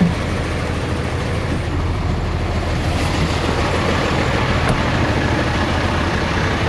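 Heavy diesel truck engine running steadily with a constant low hum.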